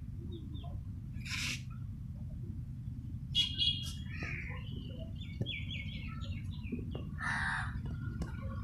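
Birds calling: a few harsh calls about a second and a half in, near the middle and near the end, with a run of short chirps between them, over a steady low rumble.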